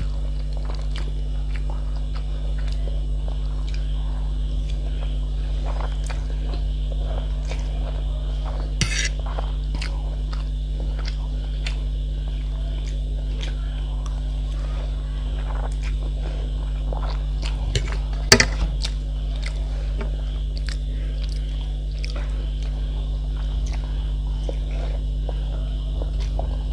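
A person chewing food, with scattered small mouth and utensil clicks and a few sharper clicks, the loudest about eighteen seconds in. A steady low electrical hum runs underneath throughout.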